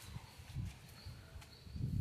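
Bonfire burning with a few sharp crackling pops, over a low uneven rumble of wind or handling on the microphone. A faint high chirping of night insects comes and goes.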